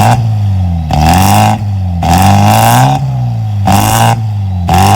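VW MK4 Bora engine revved in repeated short blips through its newly installed exhaust, about one surge a second, each rising and falling in pitch.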